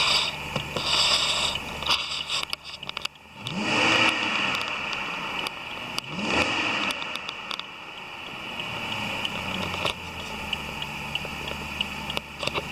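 BMW 750i's N62B48B 4.8-litre V8 engine running at idle and revved twice, about four and six seconds in, its pitch rising and falling back to idle each time.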